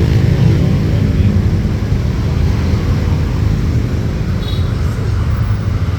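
A moving vehicle's low, steady rumble of engine and road noise, with an engine note that fades out about two seconds in.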